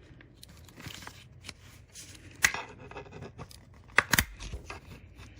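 Plastic snap-fit clips of a Seagate Backup Plus hard drive enclosure being pried apart: scraping and creaking plastic with scattered sharp snaps, the loudest about two and a half seconds and four seconds in.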